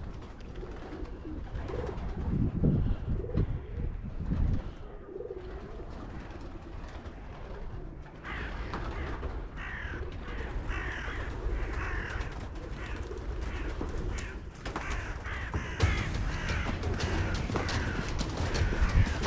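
Pigeons cooing in low, pulsed calls for the first few seconds. From about a third of the way in, a run of short, repeated, higher bird calls follows, about one or two a second.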